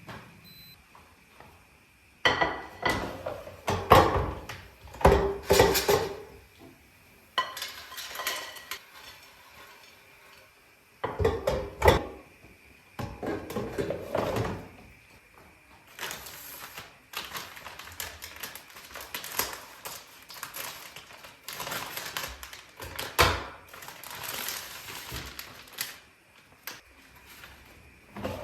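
Dishes, pots and cutlery being handled in a kitchen: irregular clatters, knocks and clinks in clusters, with short quiet gaps between.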